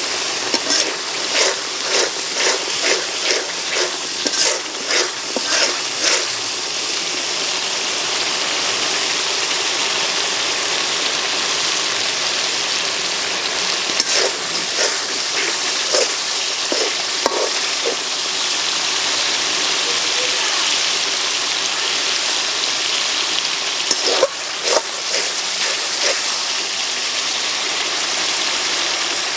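Spice-paste curry sizzling steadily in a metal karahi, with a metal spatula scraping and tapping against the pan in quick strokes through the first six seconds, and a few more strokes around the middle and near the end.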